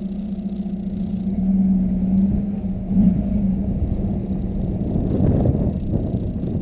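Volkswagen Golf 2.0 TDI four-cylinder turbodiesel running through a 3-inch Cortek exhaust with a high-flow cat, giving a steady low drone. The drone gets louder and rougher about a second and a half in, and swells again near the end.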